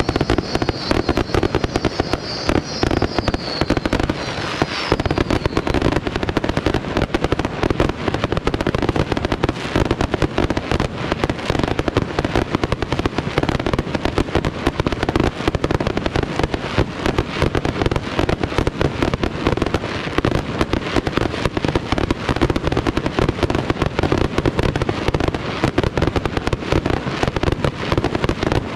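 Firework shells of a pyrotechnic display bursting in a dense, unbroken barrage of bangs. A high wavering whistle runs over the first few seconds.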